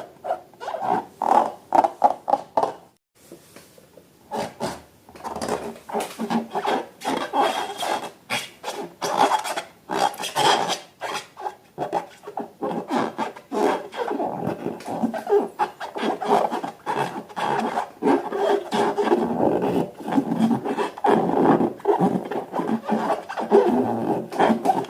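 Slime being squished and kneaded by hand: a dense run of rapid, irregular wet clicks and crackles, with a brief pause about three seconds in.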